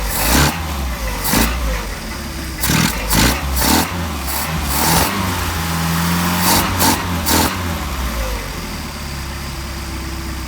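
Mercedes 190SL's four-cylinder engine running at about idle on twin Solex carburetors, its speed wavering a little, with a series of sharp clicks and snaps over the first seven seconds or so as the throttle linkage is fitted and snapped into place.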